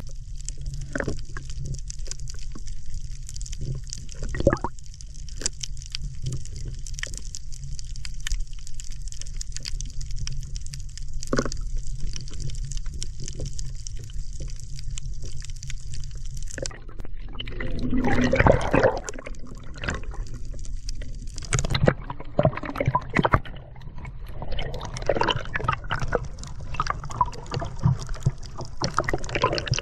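Kayak paddle strokes dipping and splashing in sea water, with water sloshing and dripping. Scattered splashes at first; from about 17 seconds in the splashing becomes louder and more frequent.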